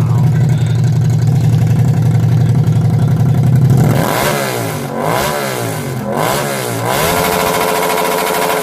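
Car engine revving through a loud exhaust: a steady low drone for about four seconds, then the revs swing up and down three times and are held high near the end.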